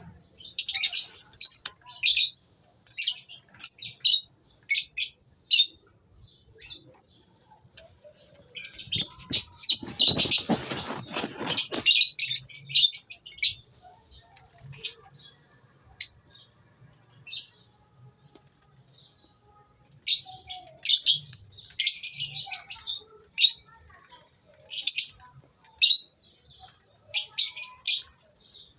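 A colony of lovebirds chirping in clusters of short, high calls, quieter through the middle stretch. About ten seconds in there is a two-second burst of rustling noise under the chirps.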